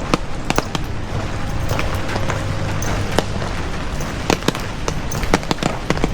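Heavy rain falling, a steady wash with irregular sharp drops striking close by, over a low steady hum.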